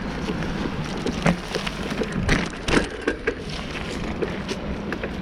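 Bicycle being ridden over a rough surface: many irregular clicks and rattles over a steady rumble of tyre and wind noise.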